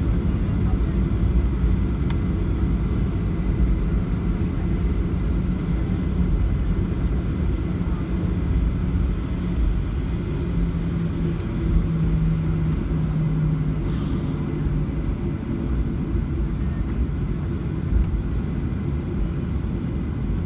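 Steady low rumble of a Boeing 737-800's CFM56-7B engines and airframe heard from inside the passenger cabin. A low engine tone shifts slightly lower in pitch partway through.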